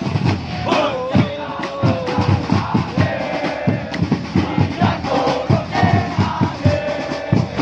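Football supporters in the stands singing a chant together over steady drum beats at about four a second.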